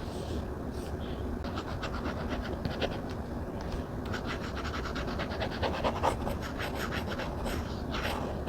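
Stylus pen scratching and tapping on a tablet screen while drawing: quick runs of short strokes, densest in the middle, over a steady low background hum.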